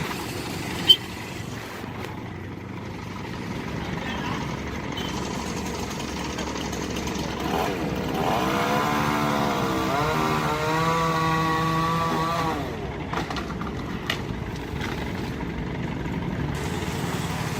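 An engine's pitch falls and then holds steady for about two seconds, starting about eight seconds in, over steady outdoor background noise. There is a single sharp click about a second in.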